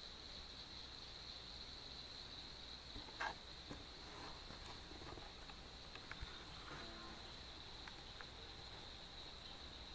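Steady high-pitched chorus of night insects, faint and continuous. A brief louder call or squeak cuts through it about three seconds in, with a few fainter short sounds a little later.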